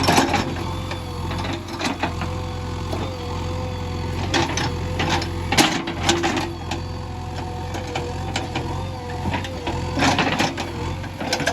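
JCB 3DX backhoe loader's diesel engine running under work, with a steady wavering whine over it and irregular knocks and clatters.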